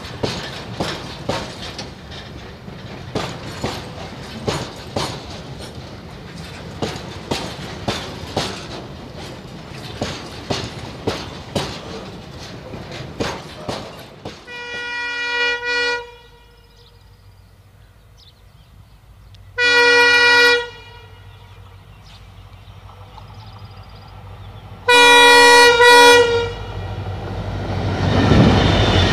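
Freight train of empty container flat wagons rolling past, its wheels clicking steadily over the rail joints. About halfway through, a diesel locomotive horn sounds three blasts of a second or so, several seconds apart. Near the end an EMD WDG4D diesel locomotive comes up close and grows louder.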